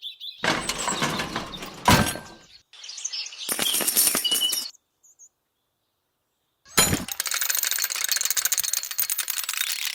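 Gritty scraping and pouring of loose building material such as sand, gravel or cement, in several bursts with a sharp knock about two seconds in. A few seconds of dead silence fall midway, then a steady crackling, rustling stretch runs to the end.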